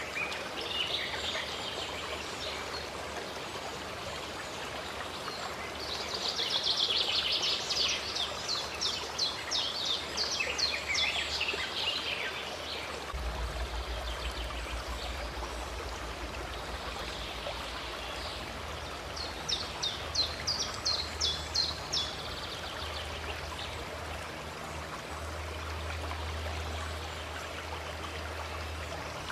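Running water of a stream, a steady rush, with birds singing over it: a fast run of repeated high notes from about six seconds in that lasts several seconds, and a shorter run around twenty seconds in. A low hum comes in about halfway.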